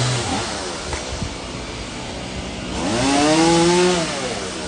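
Chainsaw idling, a rev dying away at the start, then revved up and let back down once about three seconds in, as the tree is cut off the truck.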